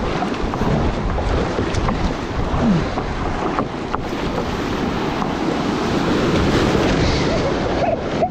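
Steady loud rush of moving water with wind buffeting the action camera's microphone, as a kayak travels down a river.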